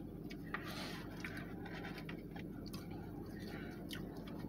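Eating sounds: light clicks and scrapes of chewing and handling food, with a brief rustle about a second in, over a steady low hum.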